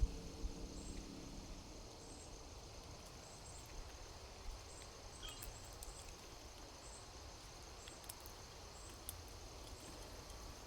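Outdoor morning ambience: a steady high insect drone with short high chirps repeating about once a second and a few light clicks. A low hum fades out in the first couple of seconds.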